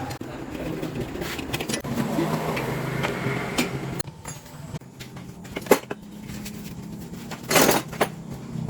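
A vehicle engine running steadily, with a few sharp metallic knocks and a louder burst of noise near the end.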